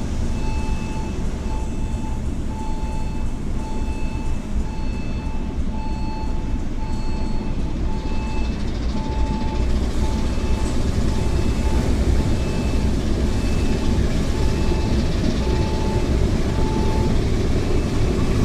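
Steady low engine rumble with an electronic warning beeper sounding about once a second, like a vehicle's reversing alarm; the rumble grows louder and hissier about halfway through.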